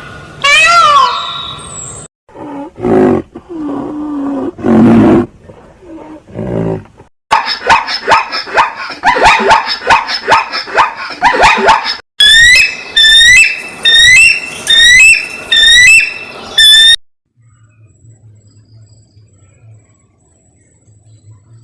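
A run of different animal calls, one after another. First comes a short call that sweeps up and down, then low growls or roars, then a fast chattering run of calls, then a string of high calls that each fall in pitch, about two a second. Near the end only a faint low hum is left.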